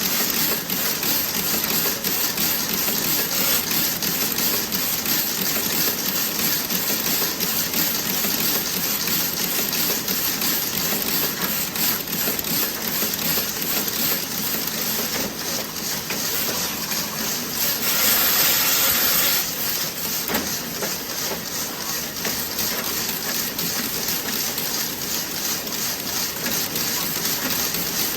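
Toe-sock knitting machine running with a fast, steady clatter of many fine ticks. About two-thirds of the way in, a burst of hiss rises over it for a second or two.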